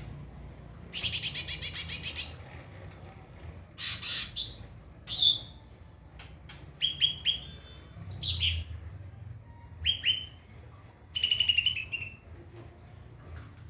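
White-rumped shama (murai batu) singing in short, varied phrases: a fast rattling trill about a second in, then sweeping whistled notes and quick runs of repeated notes, with brief pauses between phrases.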